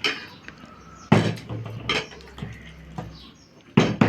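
A partly filled plastic water bottle being flipped and landing on a hard surface: about four sharp knocks, each fading quickly.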